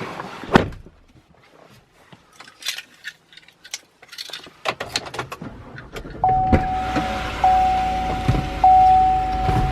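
Scattered clicks and knocks, like keys and a car door being handled, then about six seconds in a vehicle's warning chime starts: one steady tone repeating roughly every second, over a low rumble.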